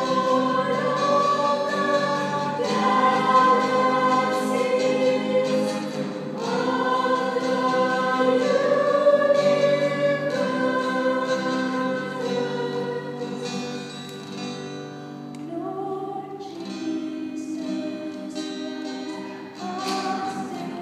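A choir singing in harmony, holding long chords that change every second or two and grow softer over the last several seconds.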